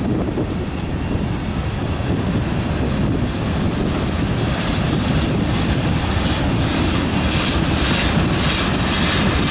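Freight cars of a slow-moving train, covered hoppers and then tank cars, rolling past close by with a steady low rumble of wheels on rail. From about halfway through, clicks from the wheels on the track come through more plainly.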